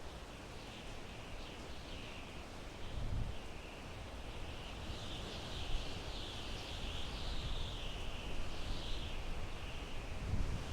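Wind blowing through pine trees: a wavering hiss of the needles that swells and eases, with low gusts rumbling about three seconds in and again near the end.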